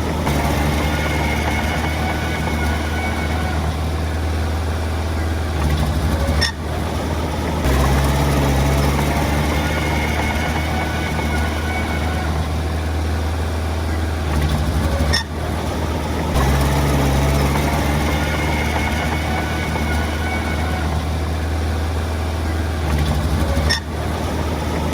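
Heavy diesel earthmoving machinery running steadily with a deep, constant engine hum. The sound breaks off briefly three times, and the engine note shifts after each break.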